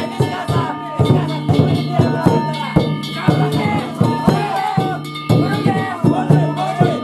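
Danjiri float festival music: hand-struck gongs ringing over a drum in a steady beat of about two strikes a second, with voices calling out over it.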